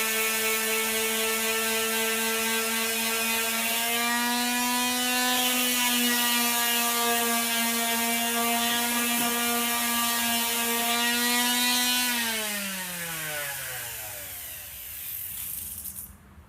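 Electric sander motor running steadily at high speed, then switched off about twelve seconds in and winding down, its pitch falling over a few seconds before the sound cuts off suddenly.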